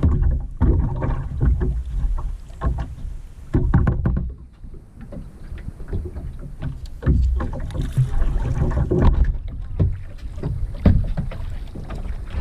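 Kayak paddle strokes, the blade dipping and splashing in the water in uneven strokes roughly once a second, over a steady low rumble.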